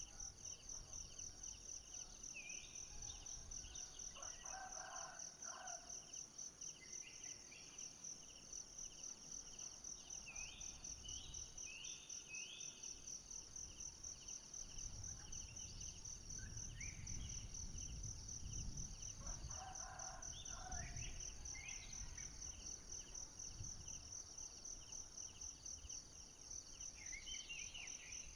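Forest ambience: insects trilling steadily in high pulsing tones, with birds giving short rising chirps. A rooster crows twice, once about four seconds in and again about fifteen seconds later.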